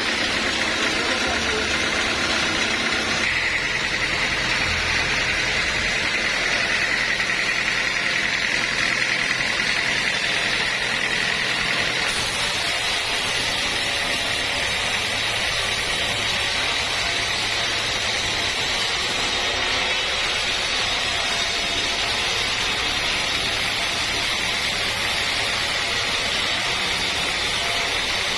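Sawmill machinery running steadily with a high, even whine. The sound changes abruptly twice, about three seconds in and again about twelve seconds in.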